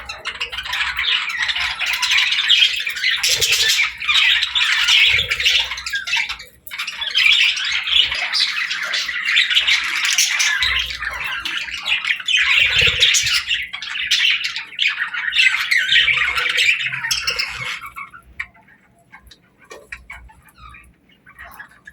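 Budgerigars (parakeets) chattering and warbling together, a dense run of overlapping chirps and squawks that thins to a few scattered chirps over the last few seconds.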